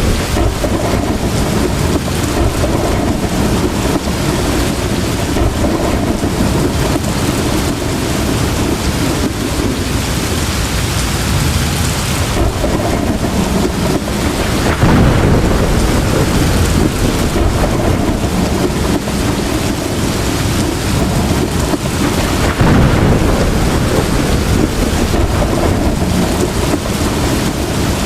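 Heavy rain pouring steadily, with deep rolling thunder that swells twice: once about halfway through and again a few seconds later.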